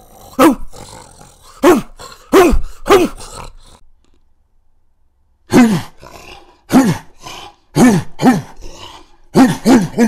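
Saint Bernard barking, about ten single barks, each dropping in pitch, with a pause of about two seconds near the middle.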